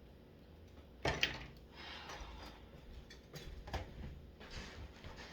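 Dishes knocking together as they are handled in hand dishwashing. A loud clatter comes about a second in, and a few more sharp knocks follow a couple of seconds later.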